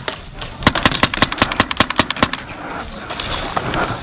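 Airsoft rifle firing a rapid burst of pellets, a fast run of sharp clacks that starts just under a second in and lasts about a second and a half.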